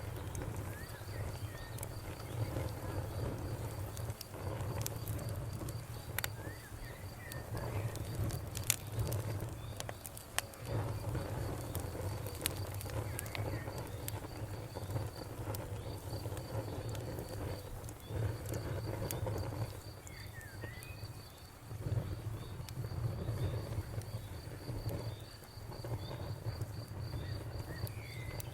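Campfire crackling with a few sharp pops over a low rumble, while an insect trills in a fast, even, high-pitched pulse and birds give short chirps now and then.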